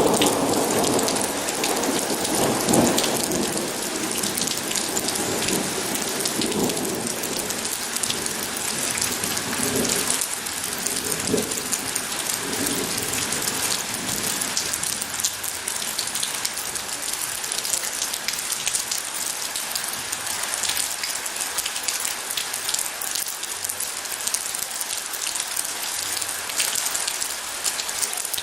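Steady heavy rain falling, a dense even patter. A low rumble of thunder dies away over the first dozen seconds or so.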